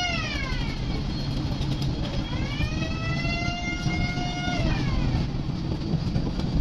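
Passenger launch horn sounding in long blasts whose pitch rises, holds and then falls away, over a steady low engine rumble.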